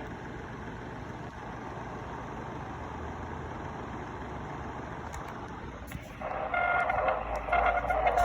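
Wouxun KG-UV9G Pro handheld radio making noise through its speaker: a steady hiss of static, then, from about six seconds in, a louder buzz with several steady tones in it that grows towards the end.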